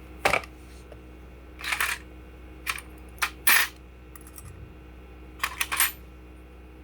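A series of short, sharp clinks and clacks of small hard parts being handled and set down, in loose clusters with pauses between them.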